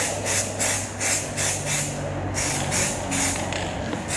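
2K aerosol spray can hissing in short repeated bursts, about three a second, as paint is dusted onto a motorcycle frame, over a steady low hum.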